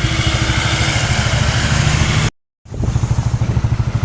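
A motor vehicle's engine running with a steady, rapid low pulsing. It cuts out completely for a moment a little over two seconds in, then carries on as before.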